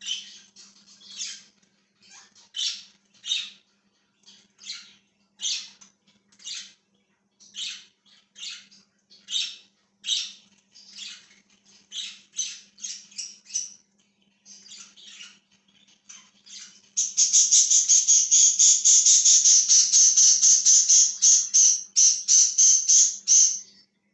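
Budgies (budgerigars) chirping in short, high calls spaced about half a second apart. About two-thirds of the way in this gives way to a loud, rapid, continuous chatter lasting around six seconds. A faint steady low hum runs underneath.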